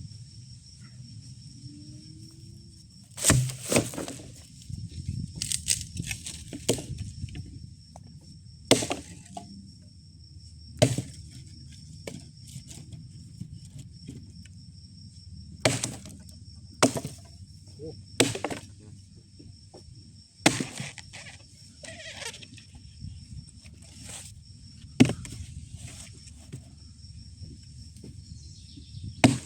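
Dry firewood being snapped and split: about a dozen sharp cracks and knocks at uneven intervals. Behind them runs a steady high drone of insects.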